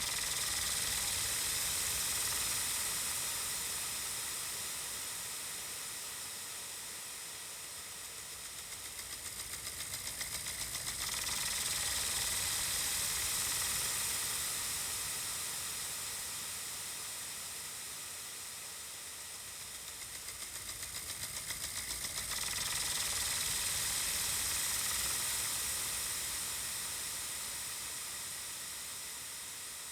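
Ambient electronic music passage made mostly of a hissing wash of noise that swells and fades in slow waves, about every eleven seconds.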